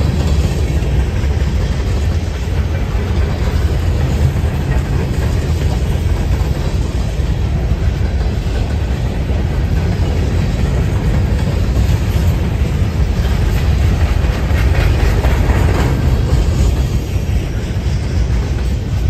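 Freight train of boxcars rolling past close by at a steady speed: a heavy, continuous rumble of steel wheels on the rails.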